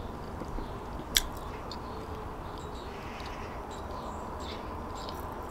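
Chewing a mouthful of baguette sandwich, with small wet mouth clicks and one sharp click about a second in, over a steady low hum.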